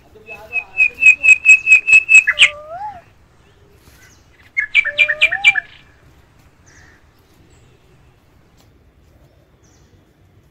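A bird calling loudly: a quick run of about nine sharp, high repeated notes, about four a second, ending in a lower rising note, then a shorter run of five notes with the same rising ending about two seconds later.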